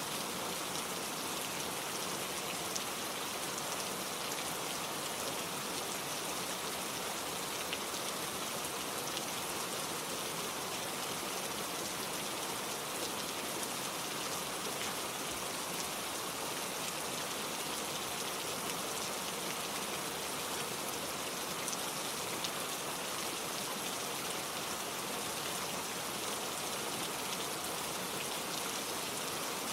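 Steady gentle rain falling, with raindrops pattering on surfaces and no thunder.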